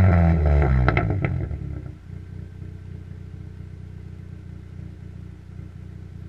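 Chevrolet Cavalier four-cylinder engine through a 2-inch exhaust, its revs falling away with a few sharp pops about a second in, then settling into a steady idle.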